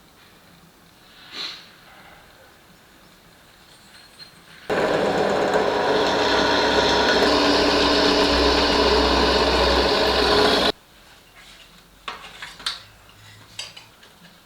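A power tool running steadily for about six seconds, starting and stopping abruptly, with a few light knocks before it.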